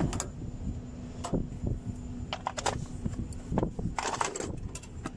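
Scattered metallic clinks and knocks of tools and parts as the cover is fitted onto the Mercedes-Benz Actros cylinder head, a few clusters of sharp taps about a second apart, over a faint steady hum.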